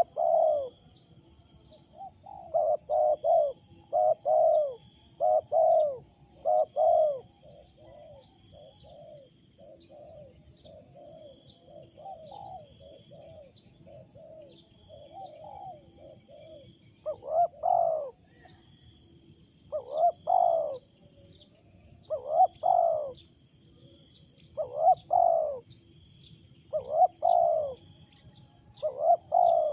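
A spotted dove cooing loudly in repeated phrases of two or three coos, with a softer run of notes about a third of the way through, in a cooing pattern called strange. Faint chirps of small birds and a steady high faint tone sit behind it.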